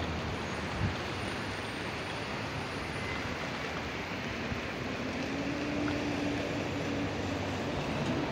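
Steady rushing noise of a Metra Electric commuter train approaching from a distance, growing slightly louder, with a faint low hum coming in about halfway through.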